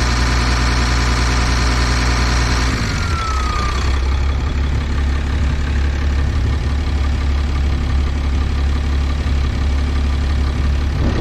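6.7 Cummins turbo diesel idling under a scan-tool fuel pressure override test. About three seconds in, the engine note shifts, with a short falling whine, and then settles into a new steady idle.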